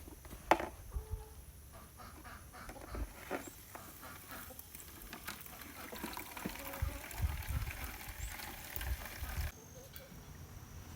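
Farm chickens clucking amid scattered knocks and rustling; the sound cuts off suddenly near the end.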